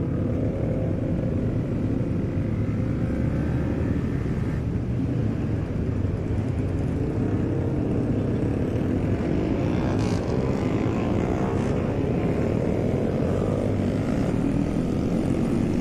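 Supermoto motorcycle engine running at road speed, heard from the rider's seat with wind rushing over the microphone; the engine note rises and falls gently with the throttle.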